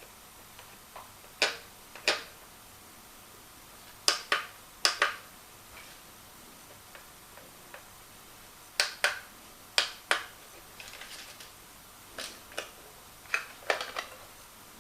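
Hard plastic parts being handled during an unboxing: about a dozen sharp clicks and taps, often in quick pairs or threes with pauses between, and a brief faint rattle around the middle.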